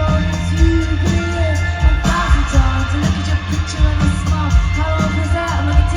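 Indie rock band playing live, with drums keeping a steady beat under bass and pitched instrument lines.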